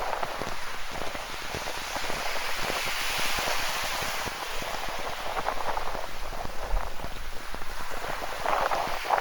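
Ocean surf washing in with a steady rush that swells about two to four seconds in, while rain patters close by as many small, quick taps.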